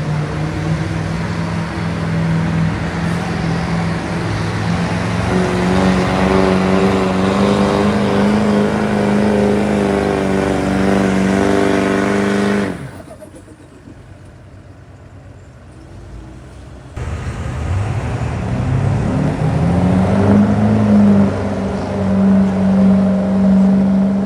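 Diesel Dodge Ram pickup's engine running hard under load while pulling the sled, its steady note climbing slowly in pitch. About halfway through it cuts off abruptly. After a few seconds of much quieter sound an engine comes back, revs up and holds steady.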